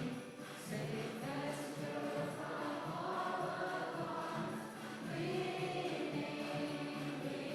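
A group of voices singing a worship song together with musical accompaniment.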